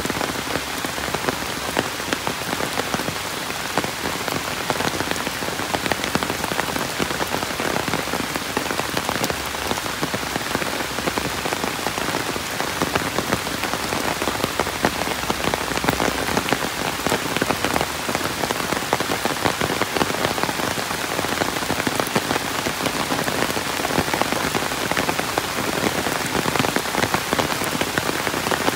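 Steady rain: a constant even hiss with a dense scatter of individual drop hits throughout.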